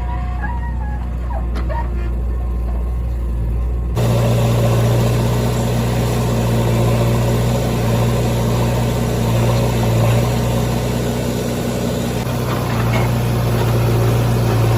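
Heavy diesel engine running steadily; about four seconds in the sound changes abruptly and gets louder.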